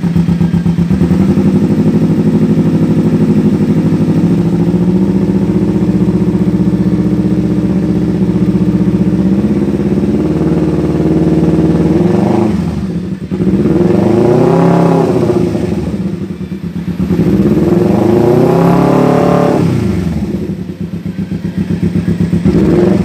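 Kawasaki Ninja 250 FI parallel-twin engine through an aftermarket Sakura exhaust, idling steadily for about half the time, then revved twice, each rev rising and falling over a couple of seconds, with a third rev starting near the end.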